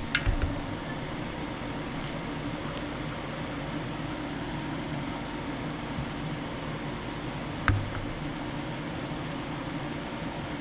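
A steady mechanical hum and hiss, like a running fan, with a few light knocks just after the start and one sharper knock a little under eight seconds in.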